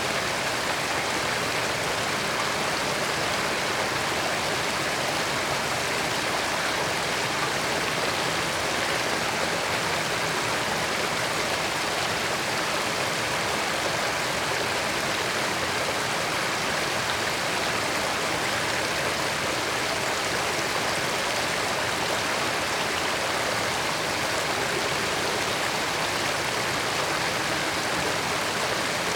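A creek's water flowing and babbling steadily, a constant, even rush without pauses.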